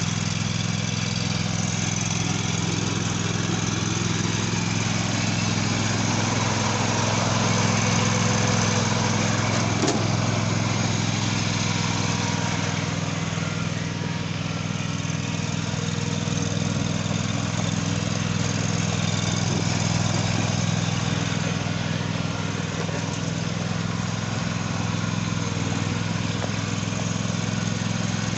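John Deere lawn tractor engine running steadily at a constant speed, with one brief knock about ten seconds in.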